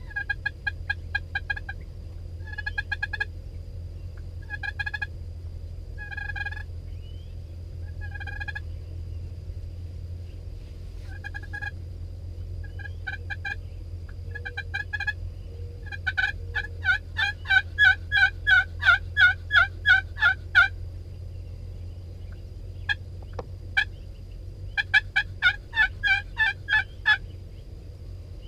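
Wild turkeys gobbling again and again, a few seconds apart at first. About halfway through, several gobble over one another in a dense run, and another cluster follows near the end. A steady low rumble lies underneath.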